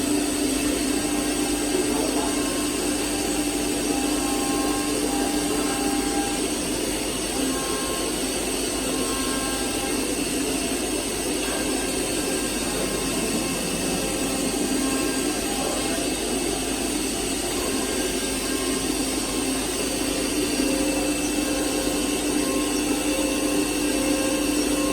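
CNC machine running steadily: a constant motor whine and hum with a thin high tone. The low hum weakens for a stretch in the middle and comes back strongly near the end.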